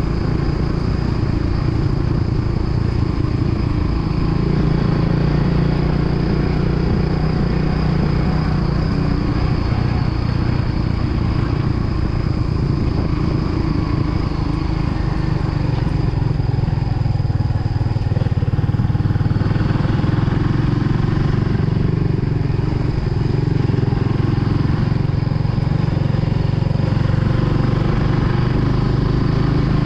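Kawasaki W175's single-cylinder engine running steadily as the motorcycle rides downhill, dipping briefly about two-thirds of the way through before picking up again.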